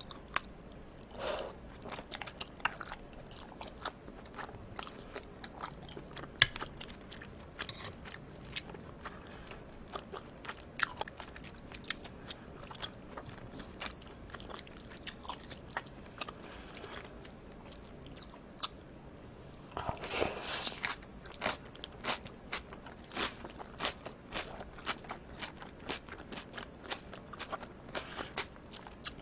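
Close-miked chewing of raw yellowtail amberjack sashimi: soft wet mouth clicks and smacks at an irregular pace, with a denser stretch of chewing noise lasting about a second some twenty seconds in.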